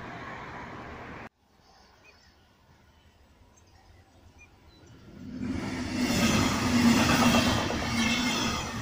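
Sound cuts off abruptly about a second in; after a few quiet seconds, a Deutsche Bahn Intercity train approaches and passes at speed, its wheels rumbling loudly on the rails with a steady whine over the rumble.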